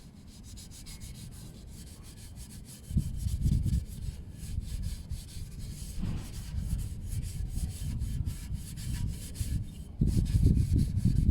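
Scouring pad scrubbing a stainless-steel motorcycle exhaust pipe coated in toilet cleaner, in rapid back-and-forth strokes. It gets heavier about three seconds in and again near the end.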